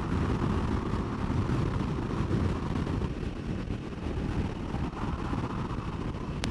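Aprilia Tuareg 660 motorcycle riding at speed: a steady low rumble of wind buffeting on the microphone mixed with engine and road noise.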